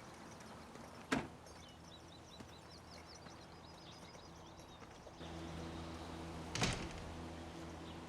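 A door thuds shut about a second in and again near the end, over faint bird chirps. A low steady hum comes in about five seconds in.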